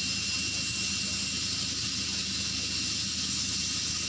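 US Army UH-60 Black Hawk helicopter's twin turboshaft engines running on the ground before take-off: a steady high turbine whine over a constant low hum and rushing noise.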